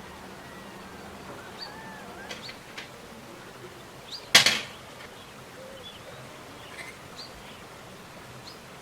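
A single sharp knock about four seconds in, over a quiet background with faint, short chirping tones scattered throughout.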